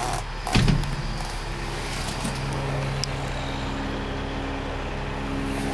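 Pacific P10 off-highway logging truck's diesel engine idling steadily, with a short loud thump about half a second in.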